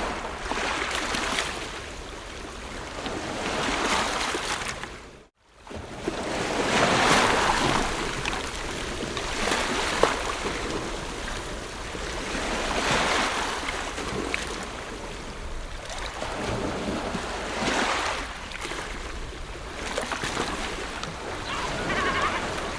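Ocean surf breaking and washing ashore, swelling and fading every two to three seconds, with a brief cut-out of the sound about five seconds in.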